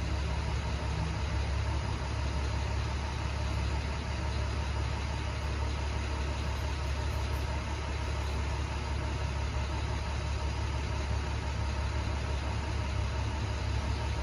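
Box truck engine running steadily with a low, even rumble, with no revving.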